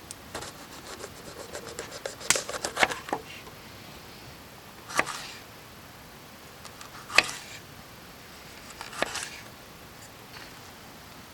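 Light handling sounds: a quick run of clicks and taps in the first three seconds, then three separate knocks about two seconds apart.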